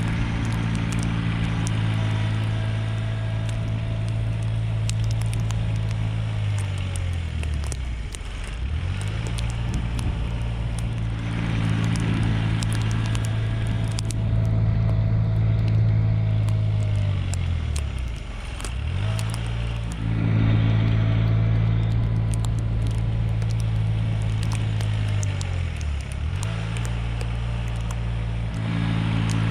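Mahindra eMax 20S compact tractor's small three-cylinder diesel engine running steadily. Three times its speed sags deeply and then climbs back, and a faint higher whine falls away just before each sag.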